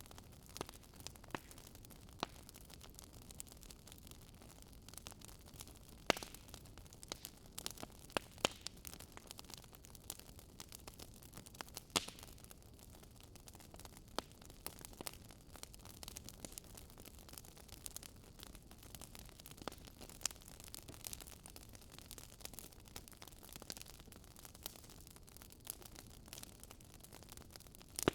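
Wood fire in a fireplace crackling: irregular sharp snaps and pops over a faint steady hiss, with a few louder pops scattered through.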